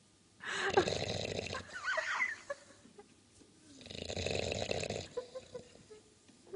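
Bulldog snoring: two long, noisy snores, the first beginning about half a second in and ending in a wavering whistle, the second about four seconds in.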